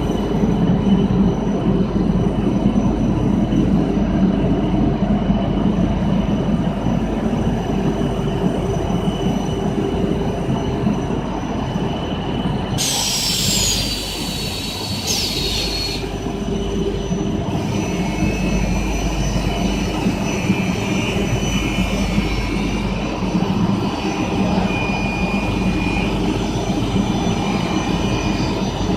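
PVC/WPC foam sheet extrusion line running, a steady loud machine drone. From about thirteen to sixteen seconds a harsh high screech cuts in and stops suddenly.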